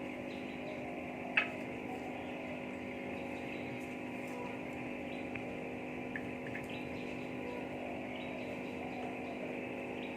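Steady motor hum from a running appliance, with one sharp click about a second and a half in and a few faint ticks.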